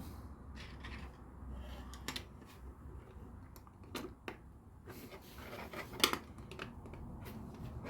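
Plastic LEGO pieces being handled and pressed together: scattered light clicks and small clatters, the loudest pair about six seconds in.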